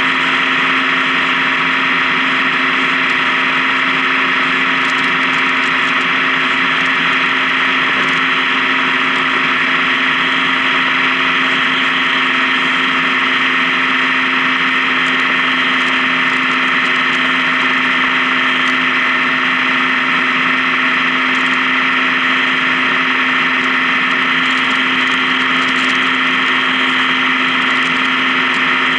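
Honda Gold Wing touring motorcycle engine running at a steady pitch while riding along at an even speed, with no revving or gear changes.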